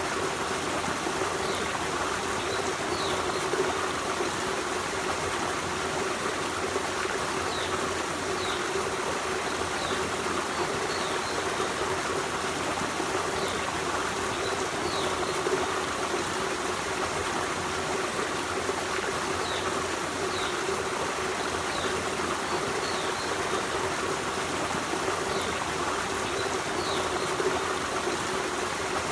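Forest stream running steadily: a constant, even rush of flowing water, with faint short high-pitched peeps now and then.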